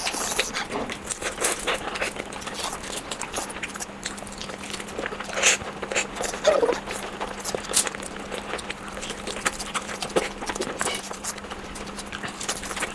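Close-miked eating sounds of someone chewing fried eggs: irregular mouth clicks and chewing noises, with a faint steady hum underneath.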